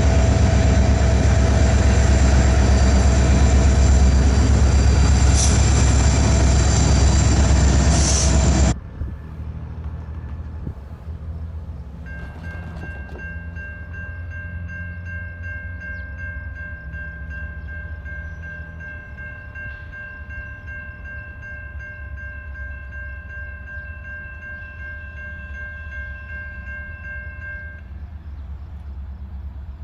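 A train rolling past close by with a loud, heavy rumble that cuts off suddenly about nine seconds in. Then a quieter rumble, and a train horn sounding a steady multi-note chord for about sixteen seconds.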